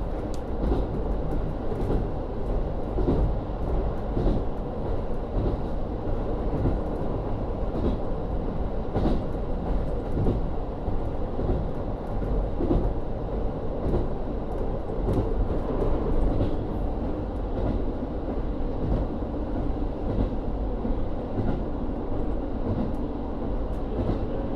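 On-board running sound of a JR Hokkaido KiHa 40 series (type 350) diesel railcar under way. Its N-DMF13HZB diesel engine and wheels on the rails make a steady rumble, with occasional short clicks.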